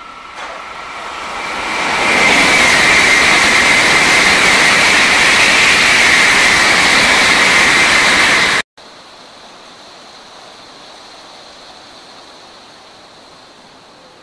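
Shinkansen N700-series train passing at speed: a rush of wind and wheel noise builds over about two seconds, then holds loud and steady. It cuts off suddenly near the middle. A fainter, steady rush of another approaching Shinkansen train follows.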